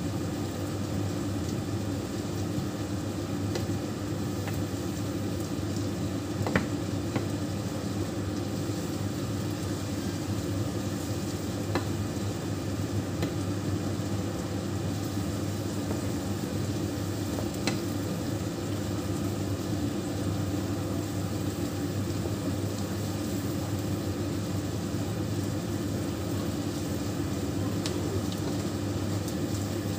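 Sliced cabbage, onion and carrot sizzling steadily in oil in a non-stick frying pan while being stirred with a wooden spatula, with a few light knocks of the spatula against the pan. A steady low hum runs underneath.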